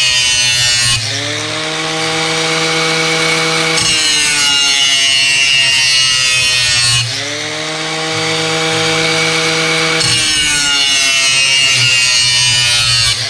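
Angle grinder grinding the cutting edge of a steel lawn mower blade. Twice the grinder is eased off the steel: the sound drops a little and the motor's pitch climbs before it is pressed back in.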